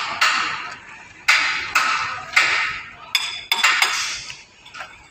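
Hammer blows on the steel parts of a motor grader's wheel suspension under repair: a run of about seven sharp, irregularly spaced metallic strikes, some of them ringing.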